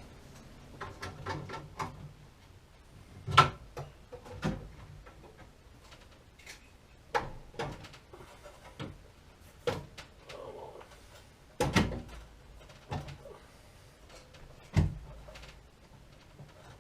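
Irregular knocks, clicks and clanks of tools and parts being handled and set down, about a dozen at uneven spacing, the sharpest about three and a half seconds in, around twelve seconds and near fifteen seconds.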